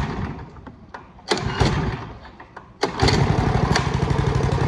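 Go-kart's small swapped-in engine being started: it fires briefly and dies once, then catches about three seconds in and runs steadily.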